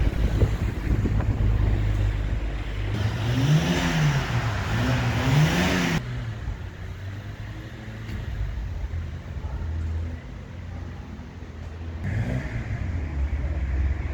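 Street ambience with a motor vehicle's engine revving up and down twice, then cutting off abruptly, over a low traffic rumble; another short rev comes near the end.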